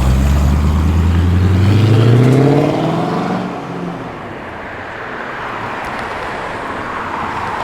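A Holden VC HDT Commodore's engine pulling away, rising in pitch as it accelerates for about three seconds, then easing off and fading as the car moves away.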